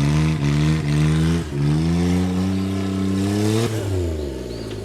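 Suzuki Jimny JA11's engine revving hard under load. It dips sharply about a second and a half in, climbs again, then drops back near the end.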